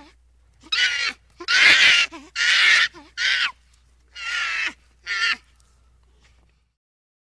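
Red-shanked douc langur giving a series of six short, harsh calls over about five seconds, the second call the loudest.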